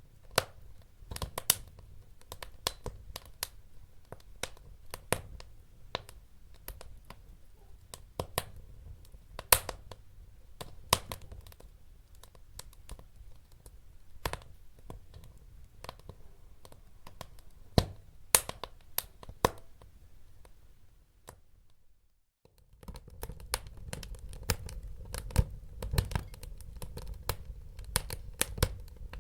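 Wood fire crackling: irregular sharp pops and snaps over a low rumble of burning logs. It cuts out briefly about three-quarters of the way through, then comes back with a fuller low rumble.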